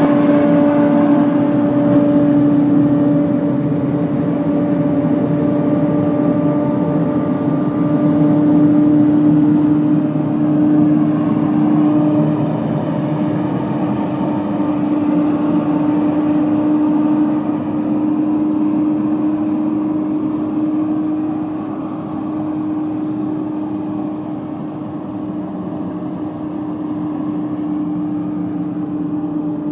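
A 1989 Ford air duct cleaning truck running steadily: a constant machine hum with one strong held pitch, a little quieter in the last third.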